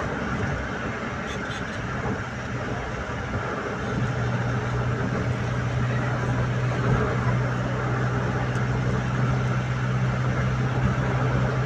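A steady low engine hum over a wide rushing noise, the hum growing stronger about four seconds in and then holding steady.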